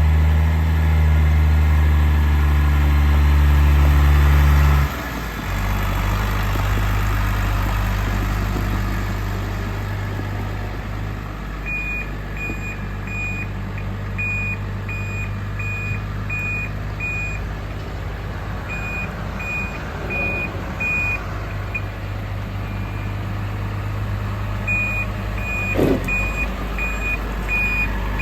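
New Holland T6030 tractor's diesel engine running steadily; about five seconds in its note drops and quietens. From about twelve seconds a high beeper sounds roughly one and a half times a second, in runs with pauses. A single knock comes near the end.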